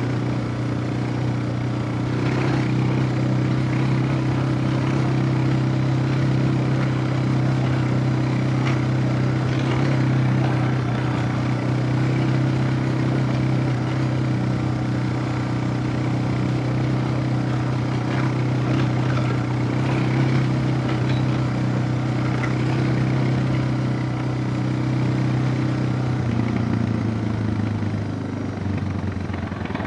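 Suzuki DR650's single-cylinder four-stroke engine running at a steady speed under way, with a few light clicks and knocks. The engine note drops near the end as the rider eases off.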